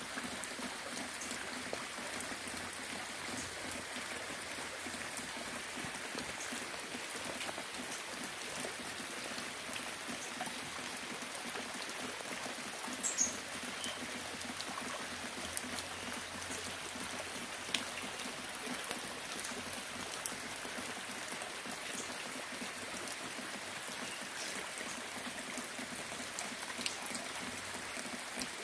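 Steady rain falling, with scattered single drops ticking sharply now and then and one louder tick about 13 seconds in.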